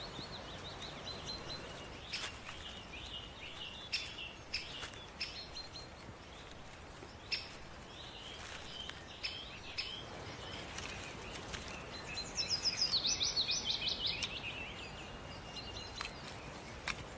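Wild birds calling and singing in woodland: short high chirps throughout and a fast trilled phrase about two-thirds through, with a few scattered soft taps over a faint hiss.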